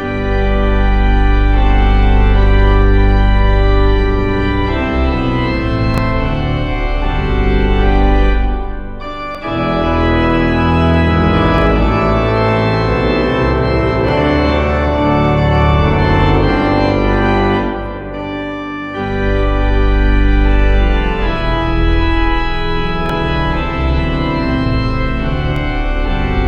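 Organ music score: slow, sustained chords over deep bass notes, shifting every few seconds.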